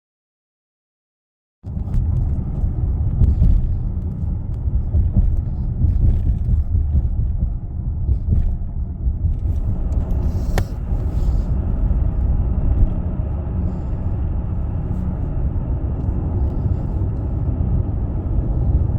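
Steady low rumble of a passenger train rolling along the track, starting abruptly after a second and a half of silence.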